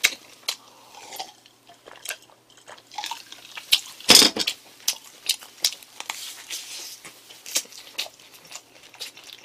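Close-miked chewing of a fried ham-and-egg croquette: irregular wet mouth clicks and smacks, with one louder smack about four seconds in.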